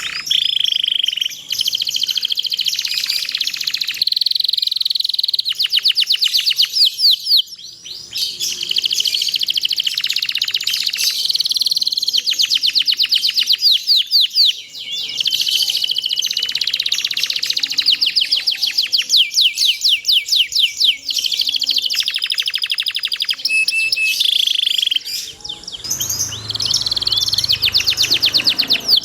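Domestic canary singing a long song of fast rolling trills and held whistled notes, phrase after phrase with only brief breaks.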